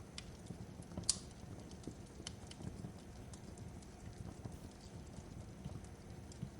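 Fireplace crackling: irregular sharp pops and snaps over a low, steady rumble of burning, with the loudest snap about a second in.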